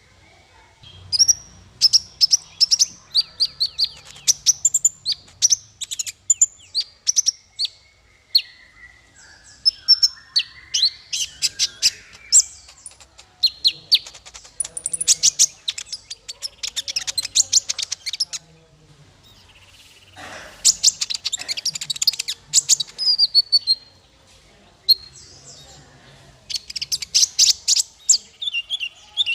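Small songbird singing rapid high chirps and dense trills in bursts, with brief pauses between runs. It is a 'masteran' tutoring recording, the kind played to teach cage songbirds their song.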